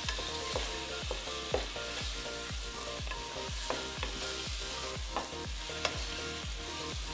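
Chicken curry sizzling in a pot while a wooden spoon stirs it, with a few sharp knocks of the spoon against the pot. A steady low beat sounds about twice a second underneath.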